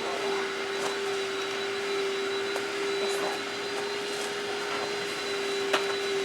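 Steady mechanical drone with a constant hum and a hiss, and one sharp click near the end.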